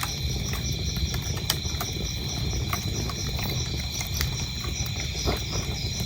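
Wood fire crackling and popping with scattered sharp snaps over a low, steady rumble of flames, while crickets chirp steadily in a high, pulsing drone.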